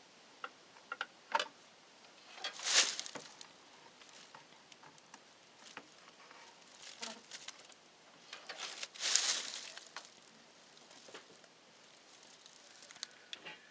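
Hands working wires and small hand tools: scattered light clicks and taps, with two louder brief scraping, rustling bursts about three seconds in and again near nine seconds, as ground and common wires are connected at an electrical outlet.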